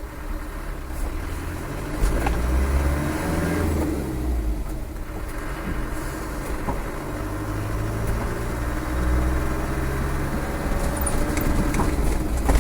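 Land Rover's rebuilt 300Tdi four-cylinder turbo-diesel engine running on the road with tyre noise, heard from inside the cab. The engine note rises about two seconds in and again later as it pulls away and eases off.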